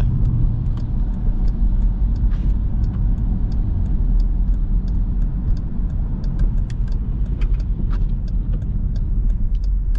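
Jeep Grand Cherokee SRT's V8 with a mid-muffler delete, cruising, heard from inside the cabin as a steady low rumble with road noise. Scattered light ticks sound a few times a second over it.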